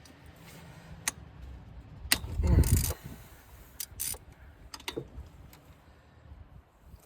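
Hand tools working on engine-bay fasteners: scattered metal clicks and clinks of a wrench or ratchet on bolts, with one louder scraping knock about two and a half seconds in.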